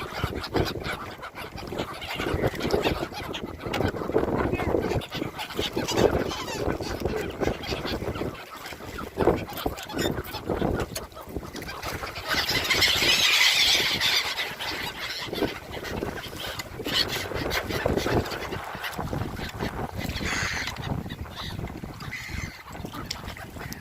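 A large flock of gulls calling constantly as they wheel around to be fed, over a steady low rumble. Around twelve to fourteen seconds in, a louder rushing hiss rises over the calls.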